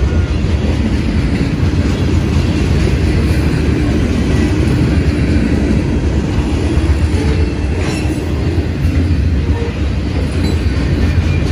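A freight train's cars, centerbeam lumber flatcars and boxcars, rolling past: a steady, loud rumble of steel wheels on the rails with occasional clicks.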